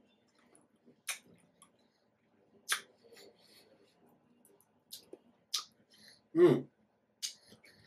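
Close-up mouth sounds of pomegranate seeds being chewed: about five crisp, wet crunches spaced a second or two apart as the arils burst. A brief hummed voice sound comes about six and a half seconds in and is the loudest sound.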